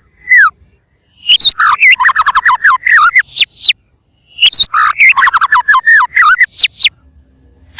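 White-rumped shama singing: two rapid runs of sharp, downward-gliding whistled notes, each lasting about two and a half seconds, with a short pause between them.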